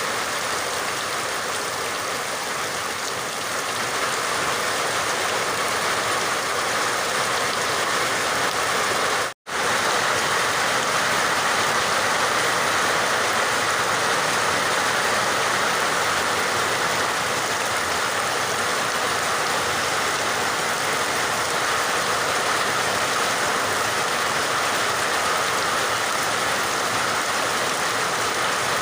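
Steady heavy rain, an even hiss of falling water with no distinct drops. It cuts out to silence for a split second about nine seconds in, then resumes.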